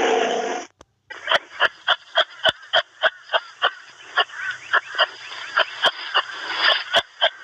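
An animal giving a long run of short, sharp calls, about three a second. A different sound cuts off abruptly just before the calls begin.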